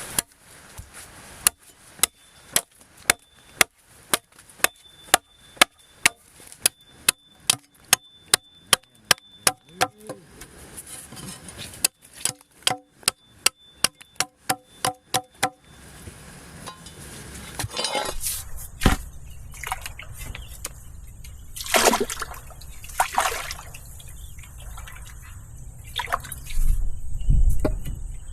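A run of sharp, evenly spaced blows, about two or three a second, with a short pause about ten seconds in. They stop about fifteen seconds in, and a steady rushing noise with a few louder swishes follows.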